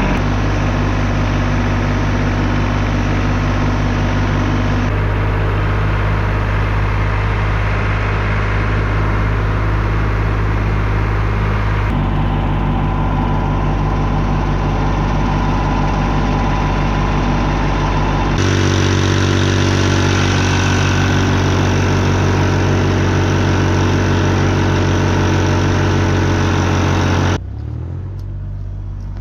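Engine running steadily, its tone changing abruptly a few times, then dropping to a quieter, lower sound near the end.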